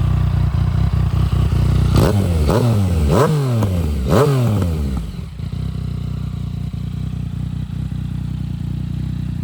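Yamaha MT-09's 847 cc inline-three engine through a full stainless Black Widow exhaust, idling and then blipped four times in quick succession about two seconds in, each rev rising and falling sharply, before settling back to a steady idle.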